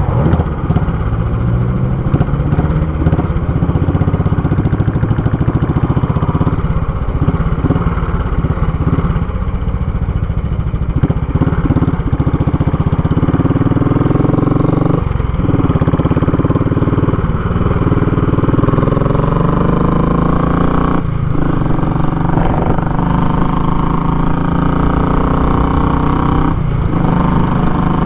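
Royal Enfield Classic 500 single-cylinder engine running through a short, raw exhaust under way, its pitch rising and falling as the throttle changes, with a few brief drops in the sound.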